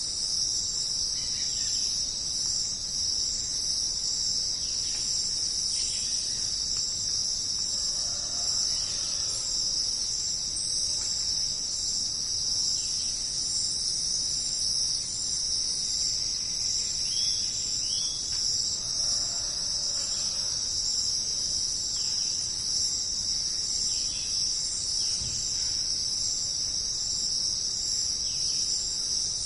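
Dense, steady chorus of insects, a high unbroken shrill that does not let up, with scattered faint bird calls now and then behind it.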